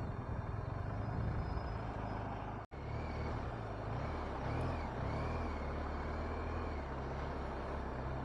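BMW R1250 RT's boxer-twin engine running at low road speed in slow traffic, heard from the bike with road and wind noise. The engine note shifts up and down a few times in the second half. The sound cuts out completely for an instant a little before the middle.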